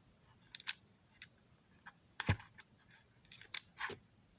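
Scattered light clicks and taps of a plastic model railroad passenger car being handled, with a sharper knock a little over two seconds in.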